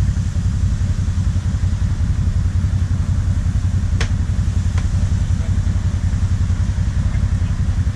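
Audi Quattro Turbo's engine idling steadily with a low, even rumble. Two short sharp clicks come about four and five seconds in.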